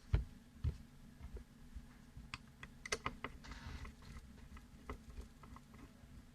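Irregular small clicks and light knocks of a folding knife's parts and small hand tools being handled on a workbench, with a brief scraping rustle about three and a half seconds in.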